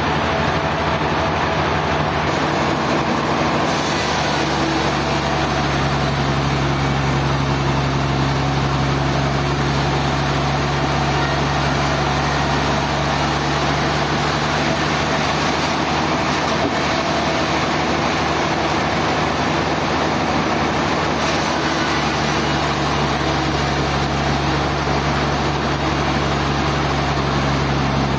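Sawmill machinery running steadily: a constant motor hum under a continuous rushing, whirring noise.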